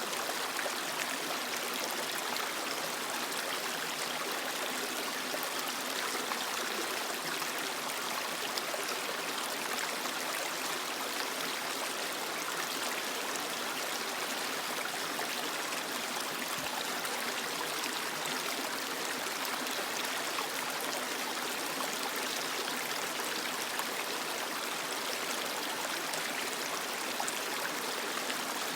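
Creek water flowing steadily over rocks, an even rushing babble with no change in level.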